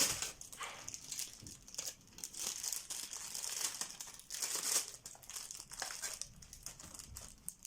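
Plastic packaging crinkling and rustling in irregular crackles as it is handled and opened.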